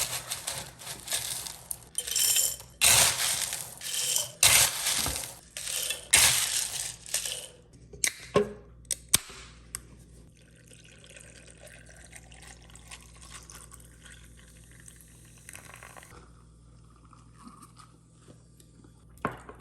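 Sonic nugget ice being scooped and tipped into a glass in a run of loud, rattling bursts for the first several seconds, with a couple of sharp clinks around eight seconds in. Then a quieter, steady pour of liquid over the ice for about six seconds.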